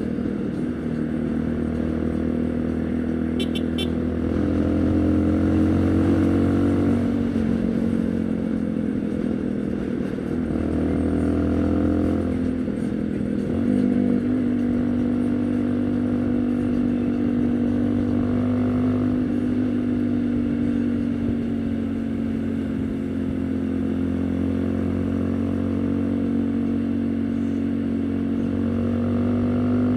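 Haojue NK150's single-cylinder engine running under way. It speeds up and then drops in pitch twice in the first half, then holds a steady cruise with a slight rise near the end.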